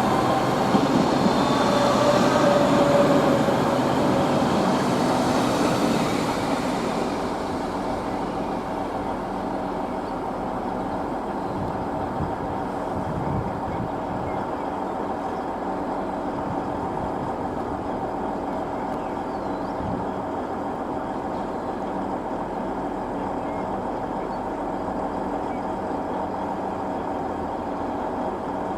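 Train wheels squealing with several high, slightly shifting tones for the first six seconds or so, then fading into a steady rail-vehicle running noise with a faint low hum.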